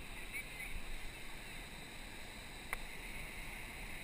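Steady noise of a surf boat out on the water, with one sharp click about two and a half seconds in.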